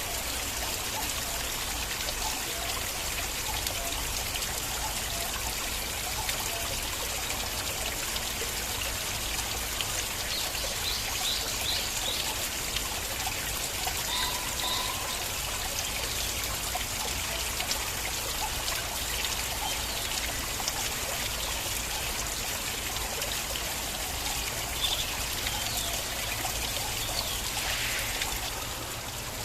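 Stream water flowing and trickling steadily over stones.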